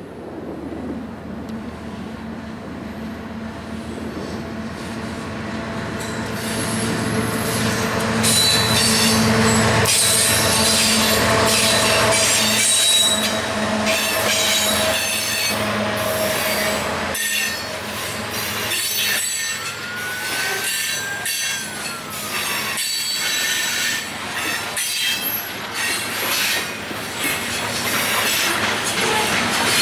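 Freight train going by: diesel locomotive engines grow louder over the first ten seconds, then the cars roll past with steady clatter and squealing wheels. About twenty seconds in there is one squeal that rises and then falls in pitch.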